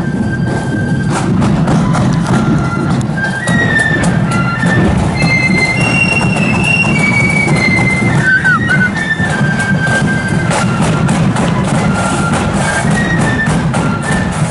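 Marching flute and drum band playing: a stepwise flute melody over a steady beat of drums.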